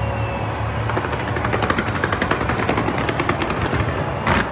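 Aerial fireworks going off: a steady low rumble of bursting shells with a rapid run of crackling pops from about a second in, and a couple of louder bangs near the end.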